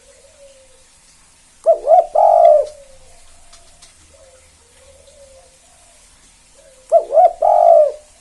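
Spotted dove (tekukur) of the 'kuk 2' song type cooing: two loud coo phrases about five seconds apart, each a quick pair of short notes followed by a longer drawn-out note, with fainter, softer coos in between.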